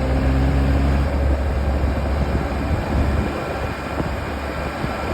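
Motorcycle riding along a road: a steady low engine rumble mixed with wind and road noise.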